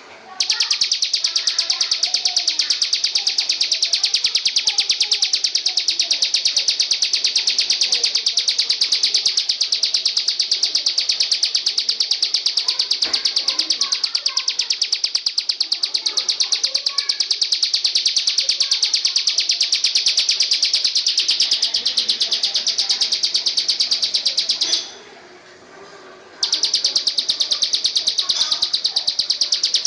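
A songbird delivering a long, very fast trill of high chirps, breaking off for about a second and a half near the end before starting again, with fainter scattered chirps beneath.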